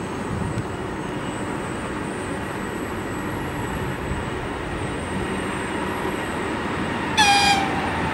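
EP20 electric locomotive and its passenger train approaching, a steady rumble growing slightly louder. About seven seconds in there is a short, loud, high-pitched horn toot from the locomotive.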